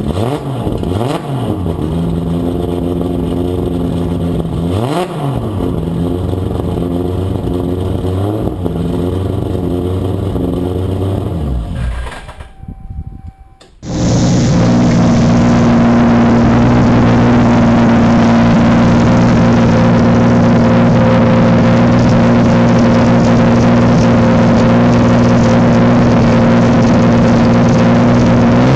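Toyota Supra MK4's turbocharged 2JZ-GTE straight-six running, its revs dropping and climbing back quickly twice in the first few seconds. After a brief break about halfway through, the engine is held at a steady, constant high rev, louder.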